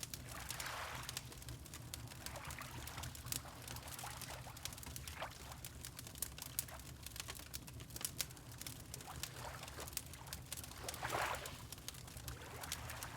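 Fireplace crackling with many small pops, over water lapping in slow swells, the strongest about a second in and again near the end, with a steady low rumble underneath.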